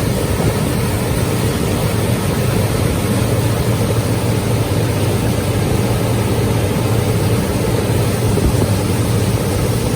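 A 25 hp four-stroke outboard motor running steadily at high speed, pushing a Yuzhanka motorboat into the wind, with a steady rush of wind and water over it.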